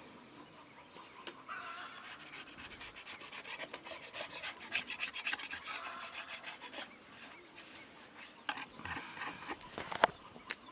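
A hand tool scraping or rasping wood in quick repeated strokes, with a single sharp knock near the end.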